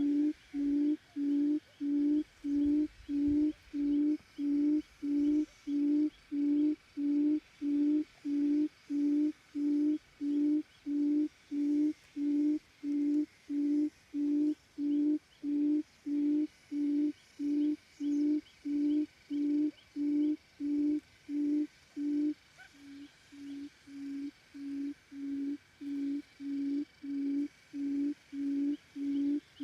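A low hooting quail call repeated very evenly, about one and a half notes a second, as used to lure forest quail to a trap. It drops suddenly in volume a little over 20 seconds in, then slowly grows louder again.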